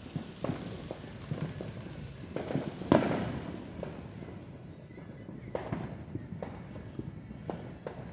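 Fireworks going off: scattered bangs and pops, the loudest about three seconds in.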